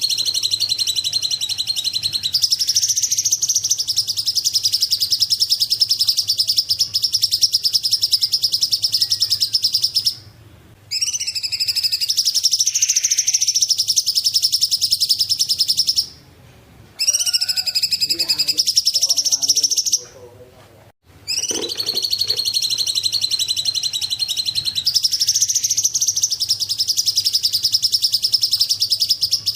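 Song of the bird known in Indonesia as the cungkok: long, very fast, high-pitched trills, each running for several seconds, broken by short pauses about ten, sixteen and twenty seconds in.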